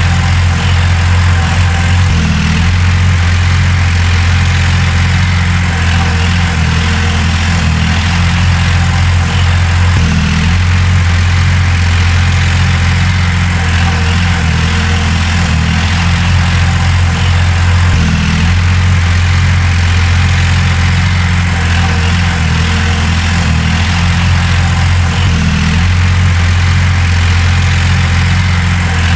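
Heavy diesel engine of earthmoving machinery running steadily, a low drone that holds the same speed throughout.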